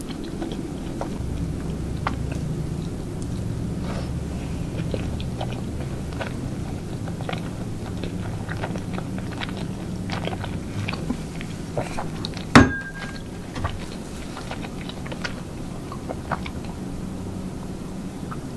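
Close-miked chewing of soft food, with small wet mouth clicks over a low steady hum. About two-thirds of the way through comes one sharp clink with a brief ringing tone.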